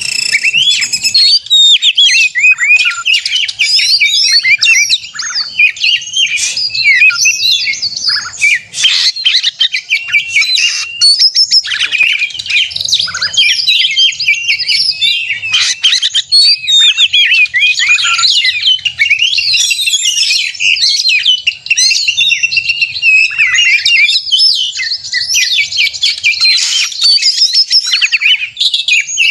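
Oriental magpie-robin (kacer) singing in aggressive fighting mode: a loud, unbroken stream of rapid, varied whistles, chirps and trills. This is the territorial song used as a lure to provoke other magpie-robins into singing.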